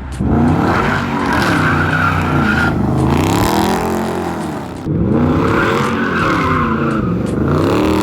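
Car engine revving up and down while the car slides on snow, in two runs, the second starting about five seconds in.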